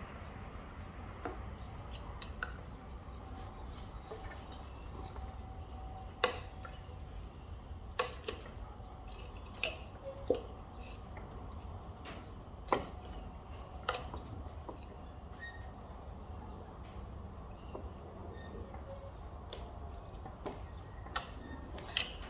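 Sporadic light clicks and knocks, about a dozen at irregular intervals, from an ignition coil being unplugged and worked out of a Jaguar F-Type's engine, over a faint steady low hum.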